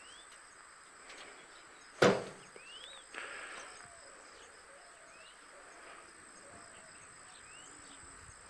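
Steady high-pitched insect drone, with short rising chirps every second or so. A single sharp knock comes about two seconds in, followed a second later by a brief rustle.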